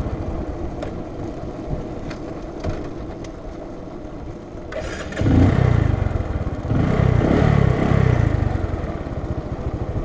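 Bajaj Boxer BM 150's single-cylinder four-stroke engine idling, then revved with several throttle blips from about five seconds in, the pitch rising and falling each time. The engine is now picking up on the throttle after hesitating to respond to it.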